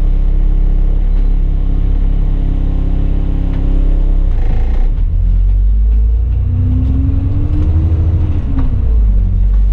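Bus engine running steadily, then pulling harder from about five seconds in, its pitch rising and then falling away near the end.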